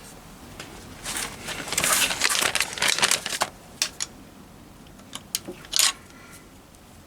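Hands handling parts and tools at a workbench: about two seconds of crinkling rustle, then a few separate sharp clicks and taps.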